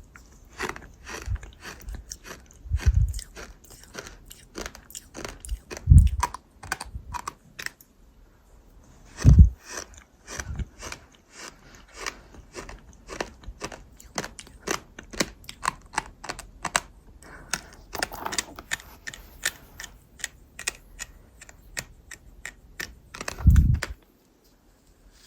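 Gritty crunching and cracking as something hard is bitten and chewed into chunks: a quick, uneven run of sharp cracks, broken by a few heavy low thumps.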